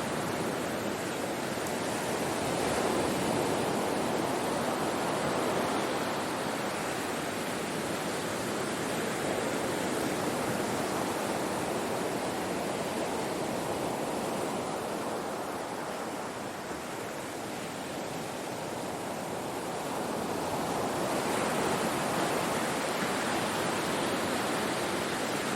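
Ocean surf breaking and washing on a shore, a steady rushing noise that swells about three seconds in, eases off in the middle and builds again about twenty-one seconds in.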